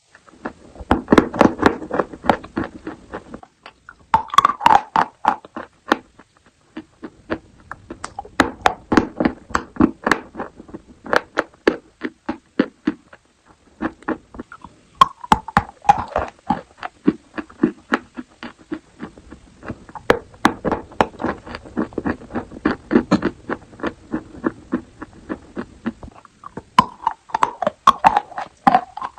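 Edible chalk being bitten and chewed close to the microphone: many sharp, crisp crunches in quick succession, coming in runs of a few seconds with short pauses between them.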